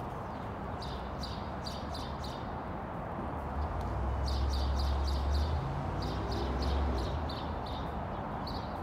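A bird calling in several quick runs of short, high chirps, about four to five notes a second, with a last single call near the end. A low rumble underneath swells in the middle and is the loudest part.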